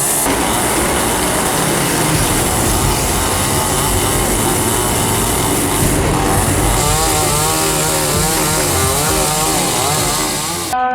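Chainsaw running and cutting wood, its pitch wavering up and down with the load.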